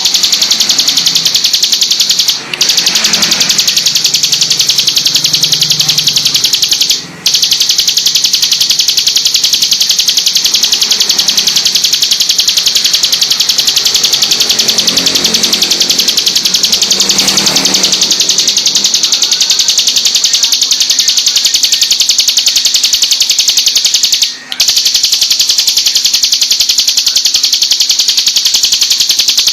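Ciblek gunung (prinia) singing a high, rapid-fire trilling song without letup, broken by three brief pauses.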